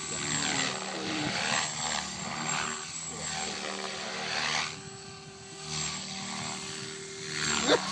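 Logo 400SE electric 3D RC helicopter flying: a steady motor and rotor drone with a whooshing blade sound that swells and fades as it manoeuvres.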